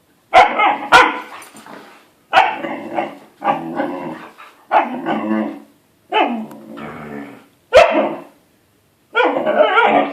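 Siberian Huskies barking and growling in play: a series of short, loud bouts, each starting sharply and trailing off, about one every second or so.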